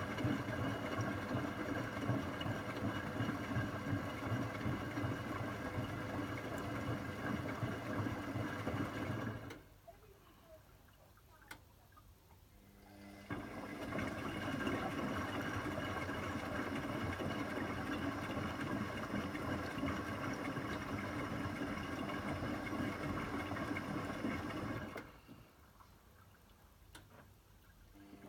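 Zanussi ZWC 1301 3 kg washing machine running with a steady mechanical hum for about nine seconds. It stops for about four seconds, runs again for about eleven seconds, then stops again near the end. This on-off pattern belongs to its final-rinse and drain stage before the spin.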